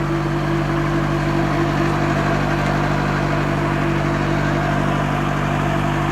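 Heavy truck's diesel engine idling steadily, an even, unchanging hum.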